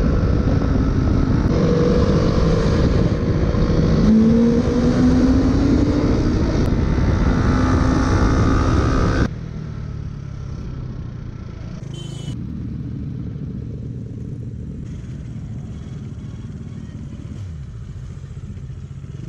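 Motorcycle riding at speed with heavy wind rush on the microphone, the engine note rising steadily as it accelerates. About nine seconds in the sound cuts abruptly to a quieter, steady engine hum.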